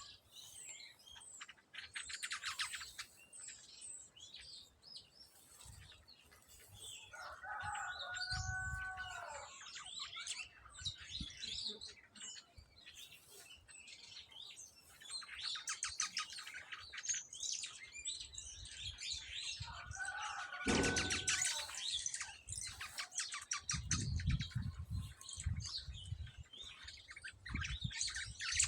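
Small birds chirping and twittering, with several fast rattling runs of chirps and a couple of longer, harsher calls. A few low thumps come near the end.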